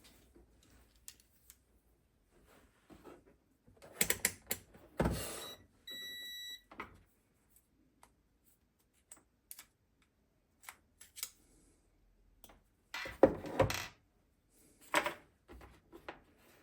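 Clicks and knocks of the mower's mains fuse being taken out and handled, with a short electronic beep about six seconds in, like a multimeter's continuity tone, a sign that the fuse is intact.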